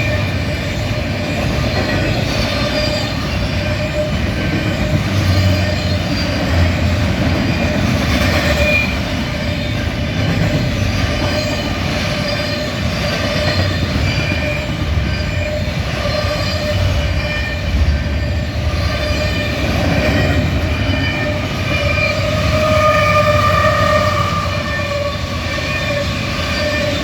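Freight cars of a double-stack container and autorack train rolling steadily past, a loud, continuous rumble of steel wheels on rail. Wavering high whining tones from the wheels come and go over it, strongest near the end.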